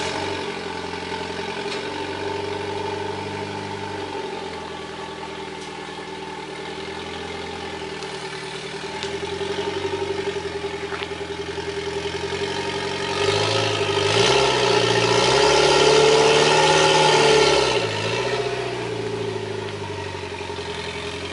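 Mitsubishi Lancer Evolution X's turbocharged 2.0-litre four-cylinder running through a straight downpipe with no exhaust fitted behind it, mostly idling and running louder for several seconds in the second half. It is not as loud as expected, because the catalytic converter still in the downpipe works as a little bit of muffler.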